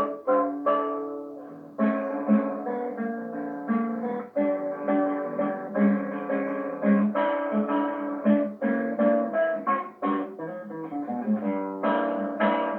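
Acoustic guitar playing a bossa nova tune: plucked melody notes over chords.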